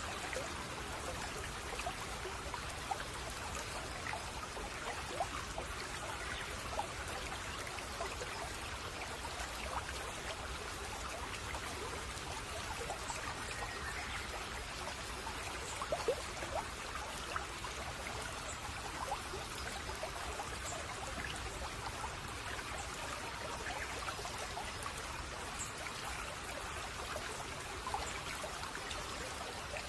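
Small brook (seseragi) babbling and trickling steadily, with small splashes and drips scattered through it.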